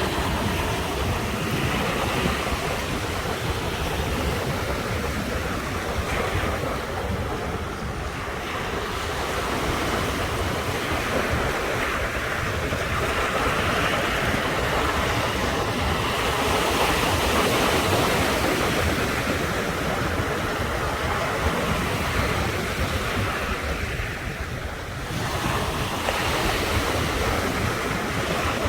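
Ocean surf: waves breaking and washing ashore in a continuous rush that swells and eases, with two brief lulls, about a quarter of the way in and again near the end.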